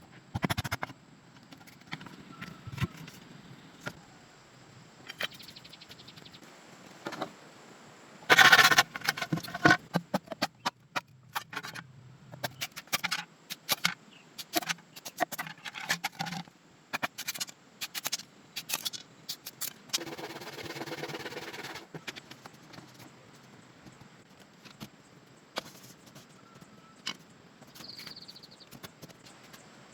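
Irregular knocks, clicks and scrapes of handwork, with a loud cluster of knocks about eight seconds in and a short rasping noise around twenty seconds in.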